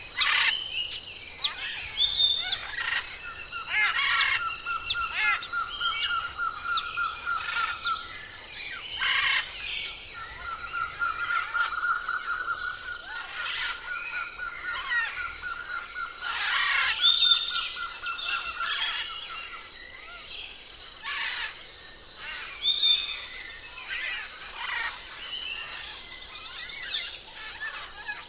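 Many birds, parrots among them, chirping and calling over one another. A long, rapid pulsing trill runs through much of the first two-thirds, with a short break, and a thin, high, steady whistle comes near the end.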